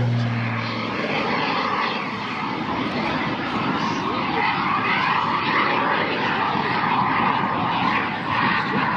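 A propeller airplane's engine drones with a steady pitch that fades out in the first second. After that a dense, steady wash of distant aircraft noise carries on.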